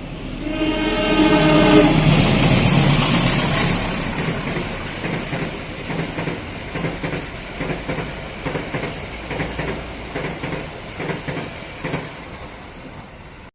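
A train sounds its horn for about a second and a half, then runs past with its wheels clacking over the rail joints, the noise slowly fading.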